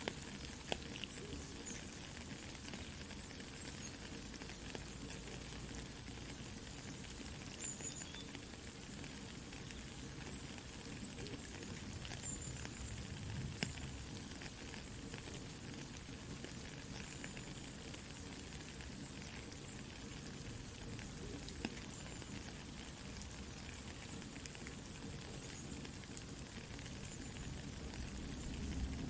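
Steady soft rain hiss mixed with a crackling wood campfire, scattered pops and snaps over the rain.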